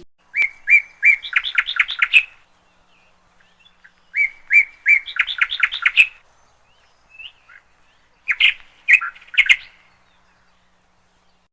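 A songbird singing: two phrases, each three spaced notes followed by a quick run of notes, then a short cluster of calls about eight seconds in.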